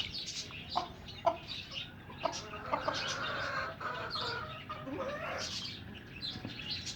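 Chickens clucking in short, scattered calls as they are fed.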